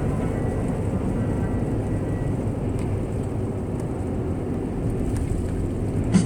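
Steady low rumble of a vehicle driving, engine and road noise with no music over it.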